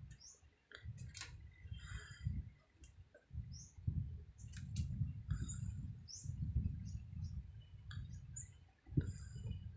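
Small birds chirping: short high chirps and quick rising notes, scattered through, over a low, uneven rumble that comes and goes in pulses of about a second.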